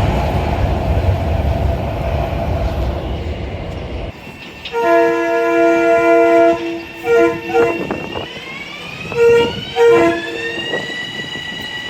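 Metro-North train horn sounding a horn show: one long chord blast, then several short blasts, while a whine rises steadily in pitch. Before the horn, a loud rushing rumble cuts off abruptly about four seconds in.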